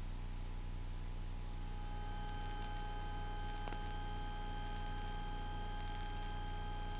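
Cessna 172S Skyhawk's four-cylinder Lycoming engine at full takeoff power, heard as a steady low drone through the aircraft intercom. Thin steady whine tones sit over it, and a high whine comes in about two seconds in.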